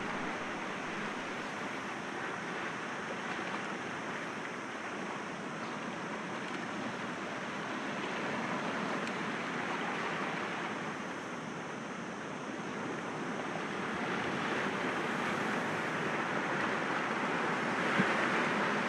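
Sea waves washing against rocks: a continuous surf wash that swells and eases over several seconds, growing louder in the second half. A single sharp tick comes near the end.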